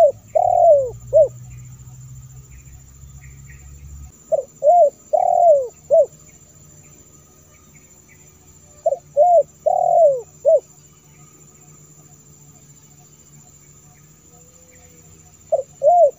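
Spotted dove (tekukur) cooing in phrases of about four notes: two short, one long, then one short. A phrase comes roughly every five seconds, four times here.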